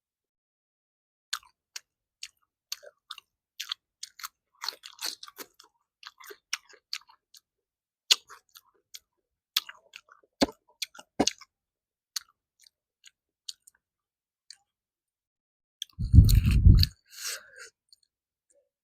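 Close-miked chewing and wet mouth clicks of someone eating puri with matar paneer, the short smacks coming irregularly, with two sharper clicks about ten seconds in. Near the end a loud, deep bump lasts about a second.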